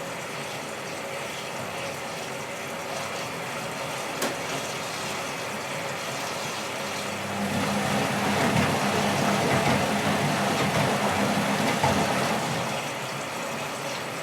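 Whirlpool AWT 2071 washing machine running, its motor and drum making a steady mechanical noise. There is a single click about four seconds in. From about seven seconds the noise grows louder, with a steady hum, then eases slightly near the end.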